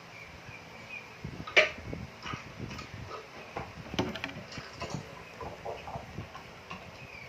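Birds pecking at food: irregular light taps and clicks, the sharpest about a second and a half in, with a few faint high chirps in the first second.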